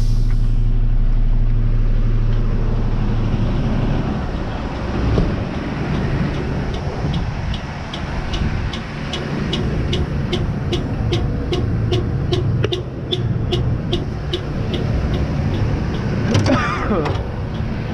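Truck engine idling with a steady low hum. From about six seconds in comes an even run of sharp clicks, about three a second, lasting some ten seconds; a short voice is heard near the end.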